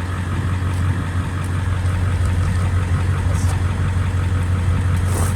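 Pickup truck engine idling in drive at about 750–800 rpm, turning a Stickler screw-cone log splitter bolted to a rear wheel hub; a steady low hum.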